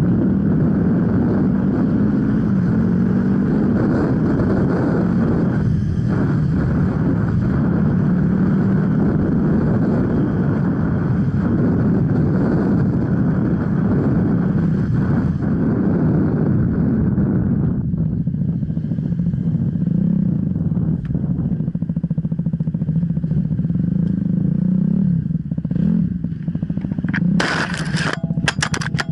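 Enduro motorcycle engine running steadily on a forest trail. Near the end there are a few short, loud bursts of noise.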